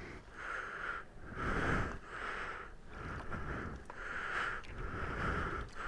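Quick breathy sniffs or pants close to the microphone, repeating about once every three-quarters of a second.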